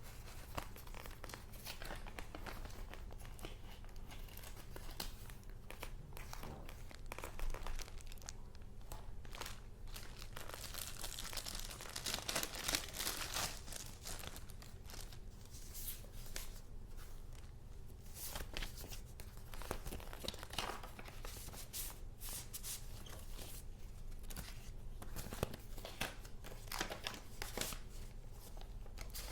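Paper goods being handled: rustling and crinkling, thickest in a longer stretch about 11 to 14 seconds in, over a low steady hum.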